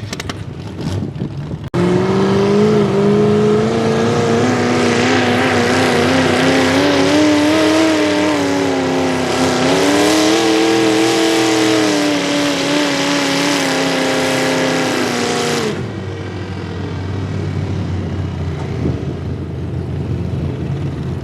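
Small pulling-tractor engine at full throttle under load, its pitch wavering, sagging about halfway and climbing back. It starts suddenly a couple of seconds in and drops away sharply a few seconds before the end, leaving a quieter, lower engine sound.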